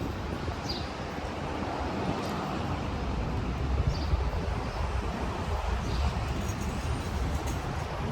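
City street ambience: a steady rumble of traffic under a constant wash of noise, with a few faint, short high chirps.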